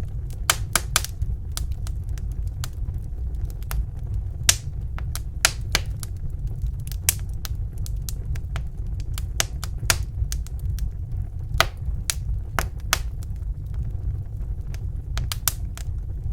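Wood fire burning in a fireplace: irregular sharp crackles and pops, a few a second, over a steady low rumble.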